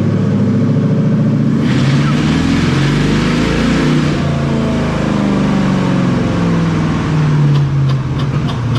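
Uncorked V8 car engine, cats deleted and air filter off, revving: the pitch climbs about two seconds in, then falls back toward idle. The revs come as marshmallows are fed into the open intake.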